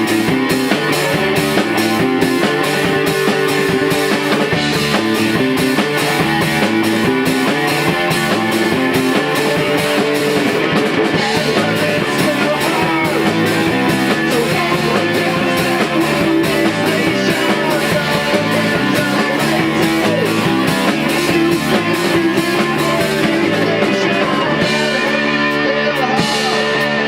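Rock band playing live in a rehearsal: guitars over a steady drum beat.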